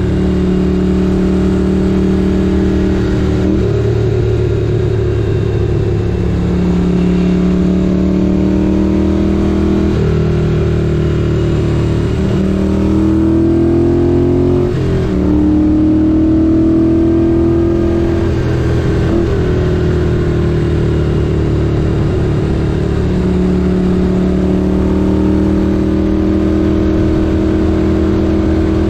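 1978 Moto Guzzi 850 Le Mans's air-cooled V-twin engine running on the move, its pitch holding steady for a few seconds at a time, then rising and dropping in steps as the bike speeds up, slows and changes gear several times.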